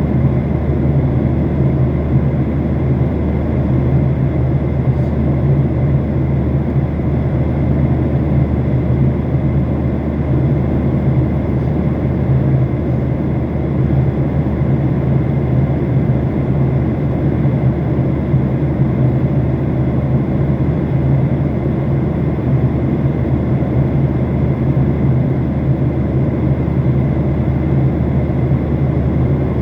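Steady, unbroken drone inside an aeroplane cabin in flight: engine and airflow noise with a strong low hum.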